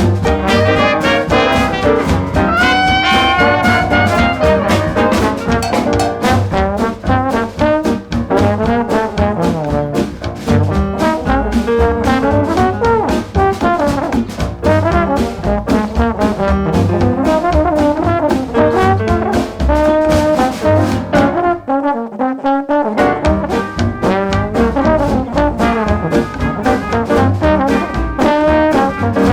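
Instrumental up-tempo swing jazz at a fast Balboa dance tempo, led by a brass section of trumpets and trombones over a driving rhythm section. About 21 seconds in, the bass and drums drop out for a moment in a short break, then the full band comes back in.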